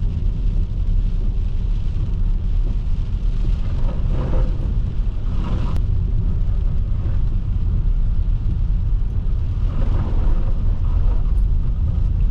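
Car on the move, with a steady low rumble of engine and road noise heard from inside the cabin.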